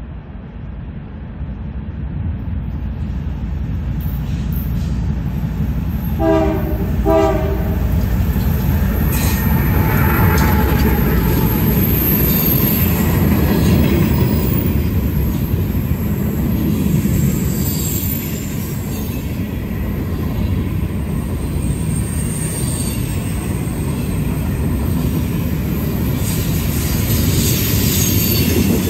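Freight train of hopper cars rolling past: a steady rumble of wheels on rail that grows louder over the first several seconds, with a high-pitched wheel squeal. Two short horn blasts sound about six seconds in.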